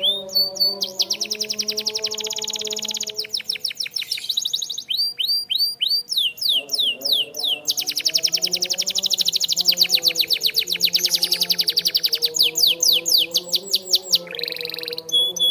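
Canary singing: long fast trills of rapidly repeated high notes alternating with phrases of slower sliding whistled notes. Soft background music with sustained low notes plays underneath.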